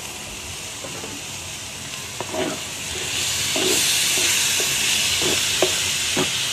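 Diced tomatoes sizzling as they go into a hot paella pan of frying peppers and onions, the sizzle growing louder about three seconds in. A utensil scrapes and knocks against the pan as they are stirred in.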